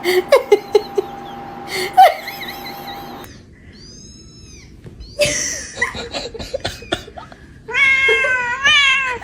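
A cat gives a drawn-out, wavering meow near the end, after short knocks and rustles.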